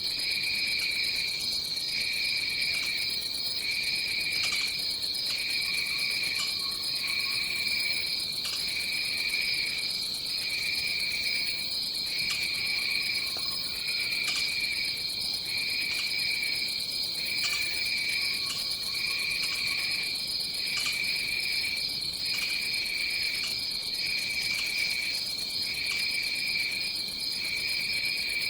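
Rainforest insect chorus: a steady high-pitched trill with a lower trill pulsing on and off about every second and a half. Faint short calls come in three times, lower down.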